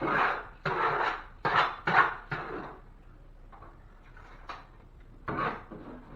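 Drywall hand work: a quick run of short scraping and clattering noises during the first three seconds, then one more a little after five seconds.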